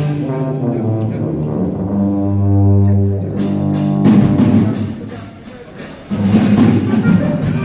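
High school wind band playing: a loud sustained low brass chord swells, then sharp percussive hits join. The music drops back for a moment before the full band comes in loud again near the end.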